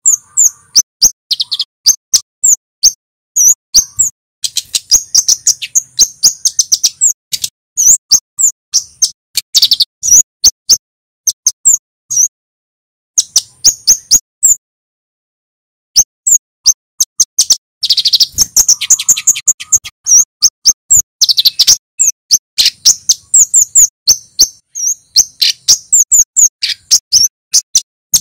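Male kemade flowerpecker (cabe-cabean) calling: rapid runs of sharp, very high 'cit' chip notes with quick trilled bursts, pausing for about a second and a half near the middle.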